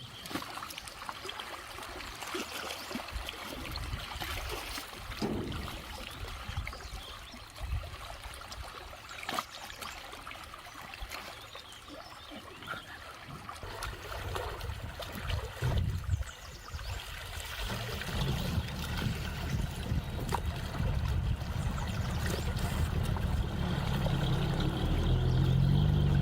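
Water trickling and running, with small splashes; a steady low rumble comes in about eighteen seconds in and grows louder.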